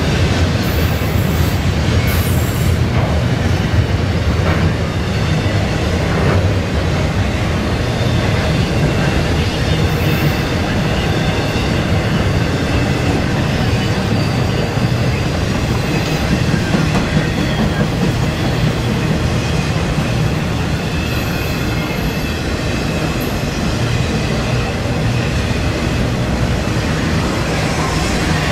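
Intermodal freight cars rolling past: a steady rumble and clatter of steel wheels on rail, with a faint high-pitched wheel squeal in the second half.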